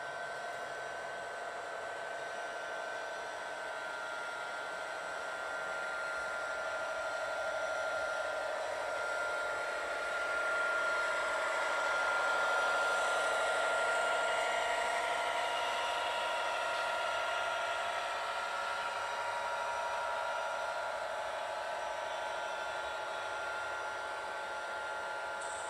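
A train passing: a steady rushing hiss with a few held ringing tones, swelling gradually to a peak about halfway through and easing off again.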